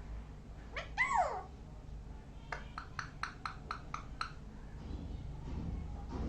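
Parrot calling: one short whistled call that rises and then falls in pitch, then a quick run of about eight short clicks, roughly four a second.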